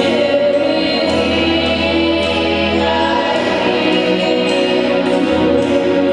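Gospel worship music: a group of voices singing together over instrumental backing, steady and full throughout.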